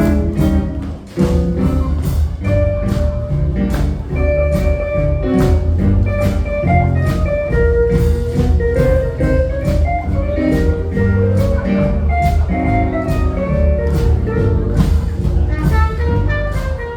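Live jazz band playing a melody over a steady rhythmic beat, with a brief drop in level about a second in.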